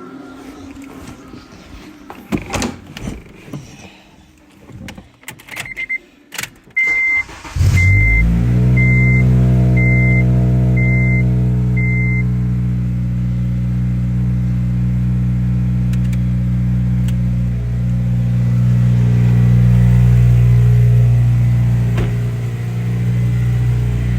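Knocks and clicks, then a chime beeping about once a second, seven times, as the Honda Civic Si's K-series four-cylinder engine starts about a third of the way in. The engine then idles steadily on fresh oil, with a slight rise in speed later on.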